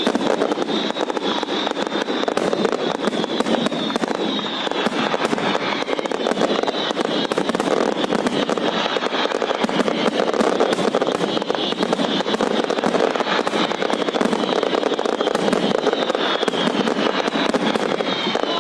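Fireworks going off in a dense, unbroken barrage of crackling and bangs, many per second, with no let-up.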